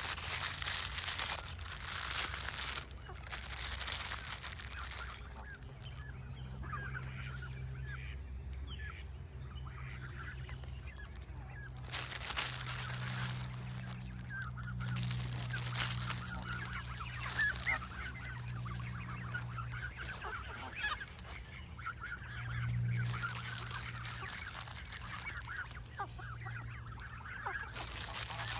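A flock of Canada geese calling and honking, many short overlapping calls at once, with stretches of hissing noise between.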